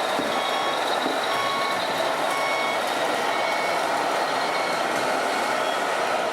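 Reversing beeper of an RC model truck's sound module, short steady beeps repeating about once a second, over a steady background of noise.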